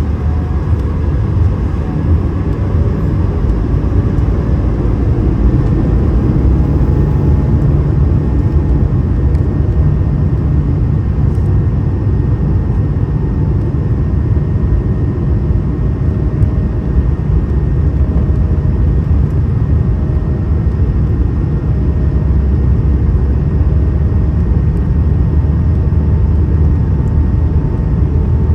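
Steady cabin noise inside an Airbus A220 in flight: a low rumble of airflow and its Pratt & Whitney PW1500G geared turbofan engines, with faint steady whine tones above it.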